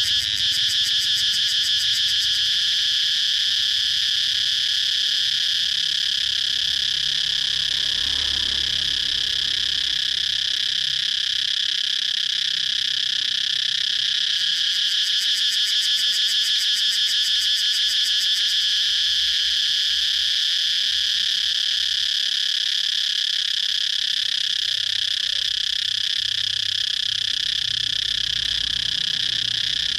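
Cicada singing: a continuous high, shrill buzz made of very rapid pulses, with the pulsing more distinct at times.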